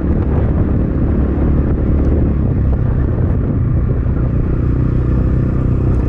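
Templar X 250 dirt bike engine running steadily on the trail, buried under heavy wind rumble on the microphone.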